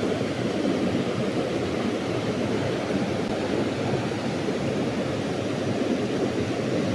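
River water rushing steadily over rapids, an unbroken hiss with no breaks or distinct splashes.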